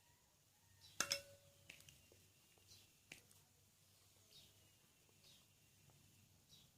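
Near silence with faint eating sounds: a sharp click and a short ringing clink about a second in, and a few softer clicks. A faint high chirp, falling in pitch, repeats roughly once a second in the background.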